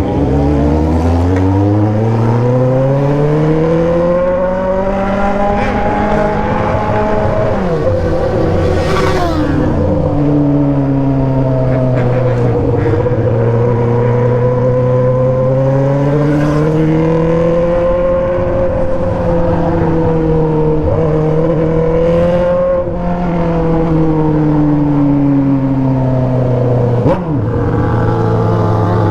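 Motorcycle engine with a remapped tune and an aftermarket three-inch exhaust, pulling under way. Its pitch climbs over the first few seconds, then rises and falls slowly, with a few brief sharp drops.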